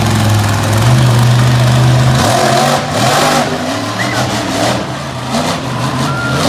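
Monster truck engine revving hard during a run. Its steady drone steps up in pitch about a second in, then drops off a little after two seconds, leaving a noisier mix of engine and crowd.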